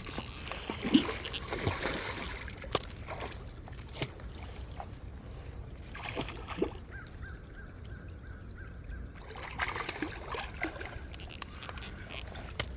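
Water splashing and trickling with scattered small knocks and clicks as a hooked catfish is played close in on the line.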